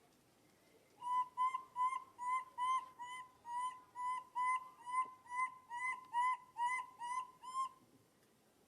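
A bird calling a long run of about seventeen short, even notes, all at one pitch and about two or three a second, starting about a second in and stopping shortly before the end.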